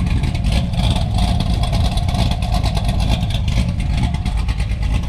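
Cammed LS3 V8 engine of a C6 Corvette running, a loud, steady low-pitched engine sound.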